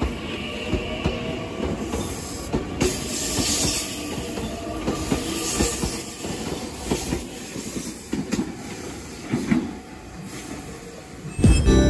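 Meitetsu commuter train pulling out of a station platform, its wheels clacking irregularly over the rail joints with faint wheel squeal. Music begins just before the end.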